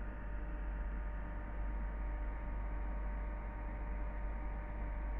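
Steady drone of a river motor ship's machinery: a deep, even hum with several steady tones above it, no change in speed.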